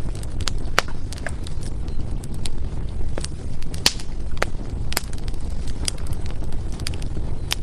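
Burning firewood: a steady low rumble of the fire with irregular sharp crackles and pops, about a dozen, some much louder than the rest.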